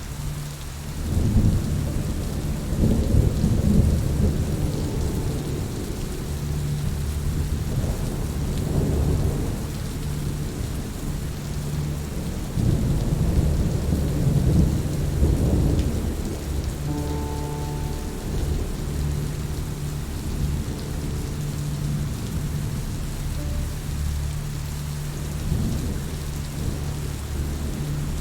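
Steady rain with thunder rumbling low several times, the loudest rolls a second or so in and again around the middle.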